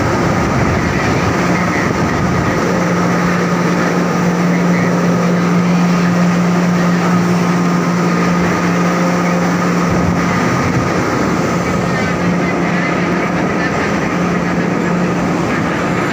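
Steady machine hum with a constant low tone over a loud rushing noise.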